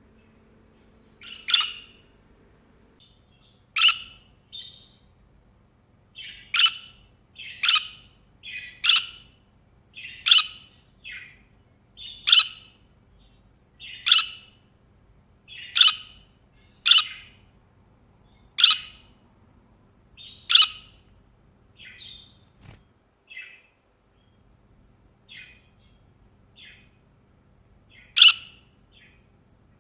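Budgerigar giving loud, sharp chirping calls, one every second or two, with a few seconds of softer calls near the end before a loud one again.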